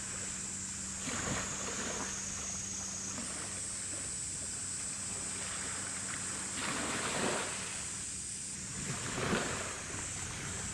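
Gusty wind buffeting the microphone in repeated swells, over a steady low hum and a thin, steady high-pitched whine.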